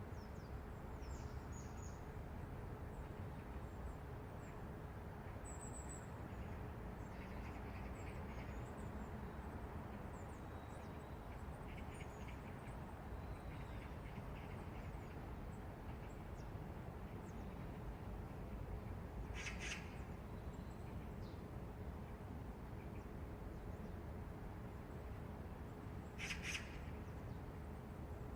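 Outdoor city morning ambience: a steady low rumble with a faint constant hum, with small birds chirping now and then. Two louder, harsh rasping bird calls come about two-thirds of the way through and again near the end.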